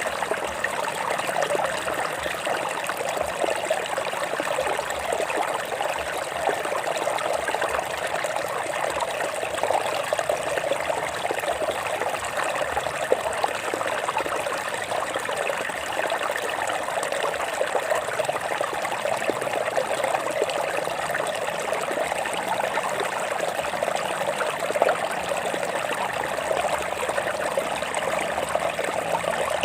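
Water streaming and trickling over rocks, a steady babbling flow without let-up.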